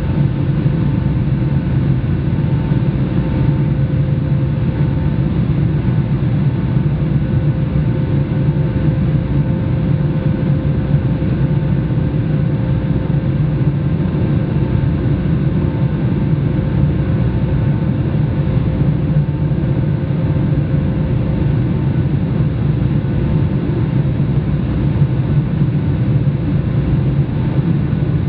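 Steady engine and airflow noise inside the cabin of a Boeing 757-200 in flight: an even low rumble with a faint steady hum over it.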